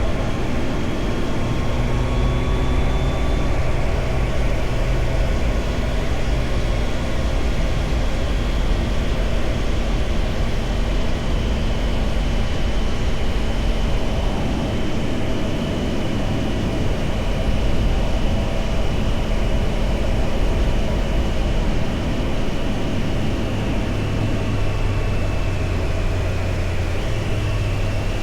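Triumph Tiger Sport 660's three-cylinder engine running under way, with a steady rush of wind over the microphone. The engine note shifts in pitch a couple of times.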